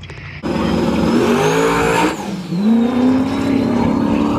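Car engine accelerating hard, its pitch climbing, dipping about two seconds in, then climbing again, with a faint high whine above it.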